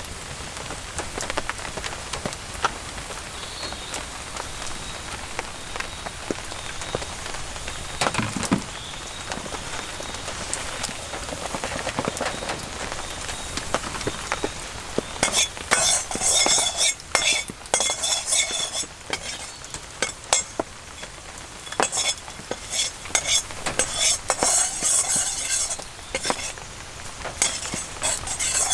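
Food sizzling in a Chinese wok over a campfire, then, from about halfway through, a metal utensil scraping and clanking against the wok in quick repeated strokes as the food is stir-fried.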